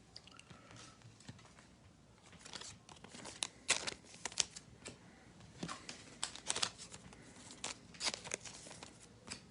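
A trading-card pack wrapper being torn open and crinkled by hand: faint, irregular sharp crackles that start a couple of seconds in.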